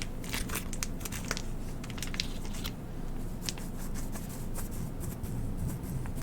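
Packaged airline sanitizing wipe being handled close to the microphone: the wrapper crinkles in irregular small crackles, thickest in the first second or two.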